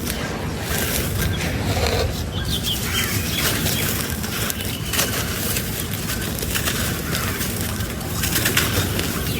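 Dry sand-cement texture crumbling and crunching: a dense run of small cracks and gritty rustling, with a few sharper snaps.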